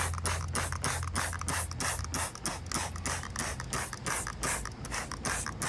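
Rapid, even back-and-forth scrubbing on a pressure washer's wheel tire, about five strokes a second, loosening caked dirt.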